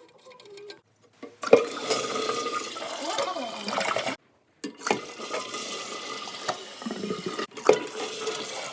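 Toilet flushing: a loud rush of water, cut off suddenly about four seconds in and picking up again half a second later.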